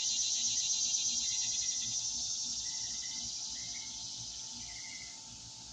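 Chorus of insects, a steady high-pitched buzzing hiss that slowly grows fainter, with a few faint short chirps on top.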